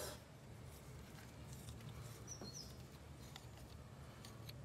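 Quiet background with a steady low hum, a few faint clicks, and a bird giving two short high chirps about halfway through.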